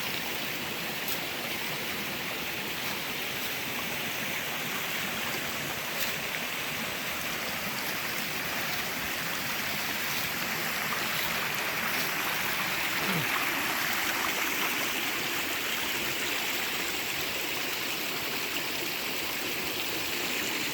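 Stream water running and rushing steadily over rocks, growing a little louder about midway.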